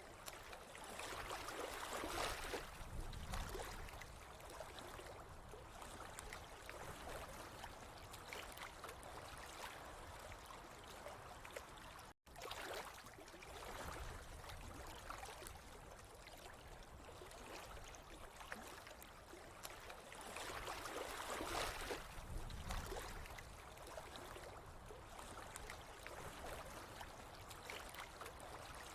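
Running water flowing steadily, swelling louder a couple of seconds in and again around twenty seconds in, with the sound cutting out for an instant near the middle.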